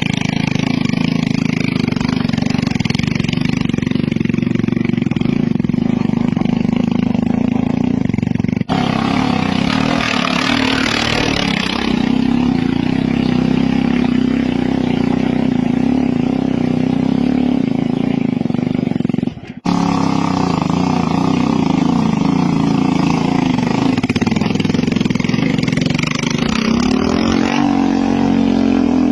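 Motorcycle engine running hard under load, climbing a steep hill, with the engine note shifting up and down. The sound breaks off and changes abruptly twice, as one clip cuts to another.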